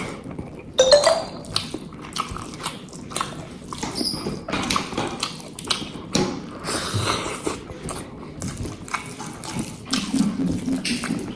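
Close-miked eating sounds: chewing with wet mouth clicks and smacks, coming irregularly several times a second, with a sharper, louder one about a second in.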